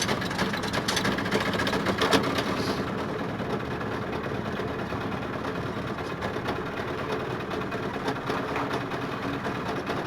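Small boat engine running steadily with a fast, even chatter, with a couple of brief knocks in the first two seconds.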